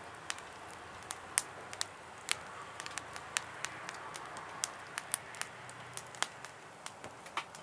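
Charcoal fire crackling: irregular sharp pops, about two or three a second, over a faint steady hiss.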